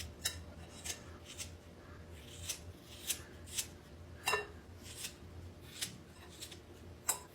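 Scissors snipping: about ten short, sharp snips at uneven intervals, over a faint low hum.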